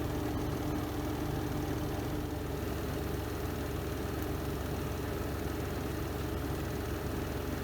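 Renova semi-automatic twin-tub washing machine in its spin cycle: the spin drum's motor running with a steady, even hum.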